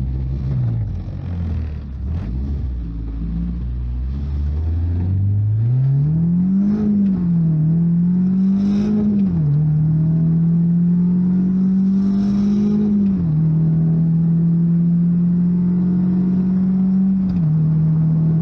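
BMW E36 engine heard from inside the cabin, pulling up through the gears. The engine note climbs, then drops sharply at each of about four upshifts, and holds fairly steady between the later shifts.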